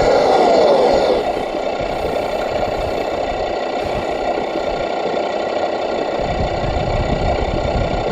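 A motor or engine running steadily at an even pitch, a little louder in the first second.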